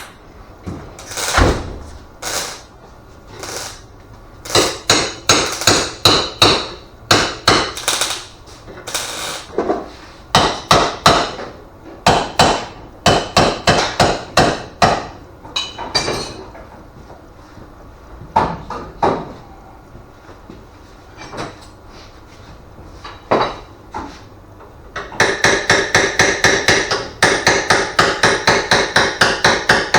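Hammer striking metal, blows coming in irregular groups, each with a ringing note. Near the end it settles into a fast, even run of about four blows a second.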